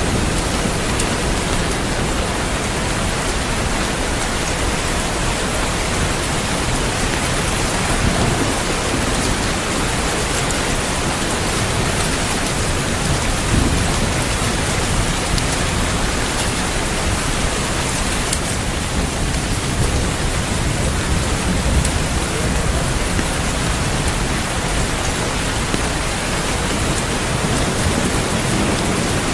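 Steady rain pouring down, with low thunder rumbling in the background at times.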